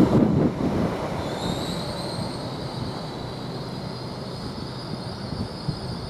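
Passenger train braking into a station: the rumble of the train fades over the first second, then a high, slightly rising brake squeal sets in about a second in.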